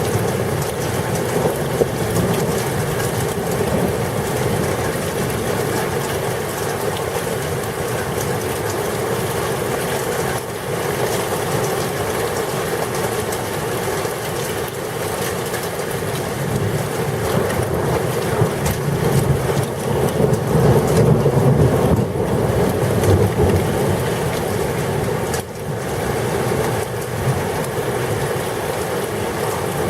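Thunderstorm rain and wind as a steady, loud rushing noise, with wind buffeting the microphone. It swells louder with a deeper rumble for a few seconds around twenty seconds in.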